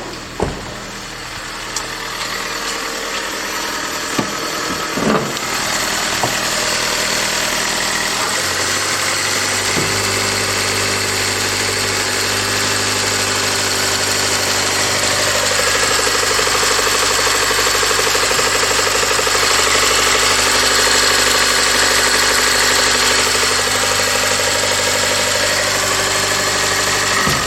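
Honda Accord Hybrid's LFA 2.0-litre four-cylinder engine test start: a few clicks and a building whir, then the engine catches about eight seconds in and idles steadily.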